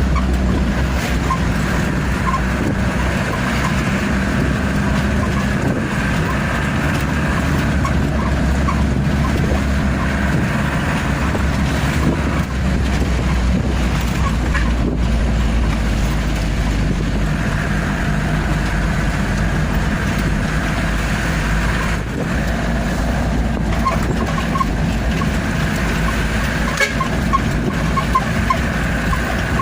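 Truck engine running steadily while under way.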